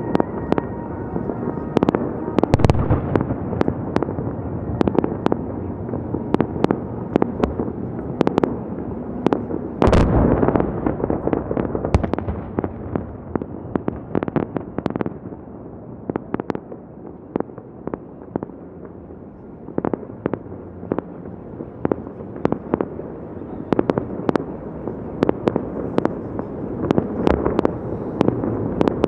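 Fireworks display: a dense run of sharp bangs and crackling over a continuous rumble, with heavier booms about ten seconds in and again two seconds later, easing off briefly past the middle before building up again.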